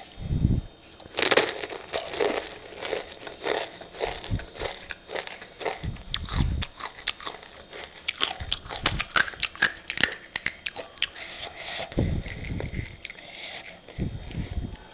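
Close-up crunching and chewing of crisp pani puri shells: rapid crackling crunches, thickest and loudest about two-thirds of the way through, with a few dull low thuds between bites.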